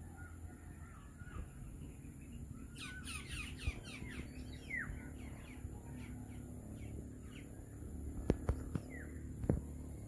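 Orioles calling: a burst of quick, harsh calls, each sliding downward, about three seconds in, then thinning to scattered calls. A few sharp clicks come near the end, over a steady high-pitched hiss.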